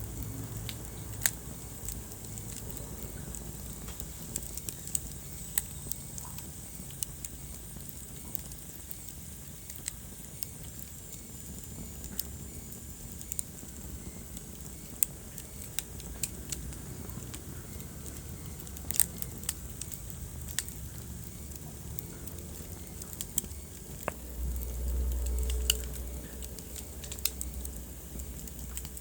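Wood fire burning in a fireplace, crackling with irregular sharp pops and snaps over a steady low rumble. Near the end, the low rumble swells up louder for a couple of seconds.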